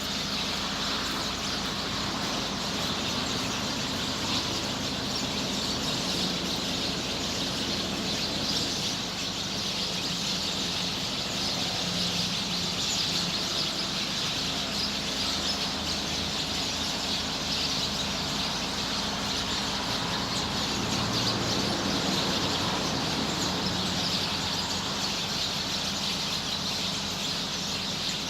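A large flock of small birds chirping together in a dense, continuous chorus as they settle into their evening roost in trees, over a steady low hum.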